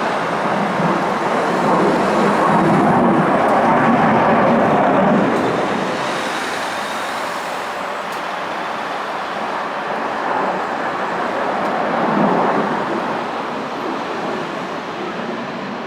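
F-15 fighter jet engines roaring overhead as the jet climbs and turns. The roar is loudest a few seconds in, eases, swells again about three-quarters of the way through, then fades.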